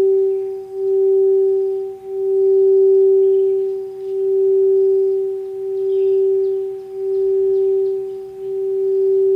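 Singing bowl held on one steady, pure note, its loudness slowly swelling and fading about every second and a half, with faint bird chirps in the background.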